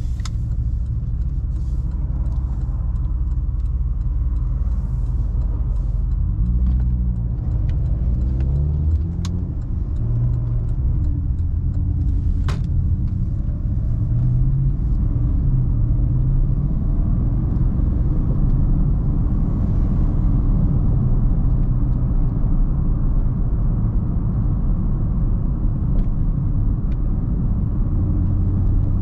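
2009 Porsche Panamera Turbo's twin-turbo 4.8-litre V8 running under way, a steady low rumble mixed with road noise. The engine note rises and falls a few times in the first half, and there is one sharp click about twelve seconds in.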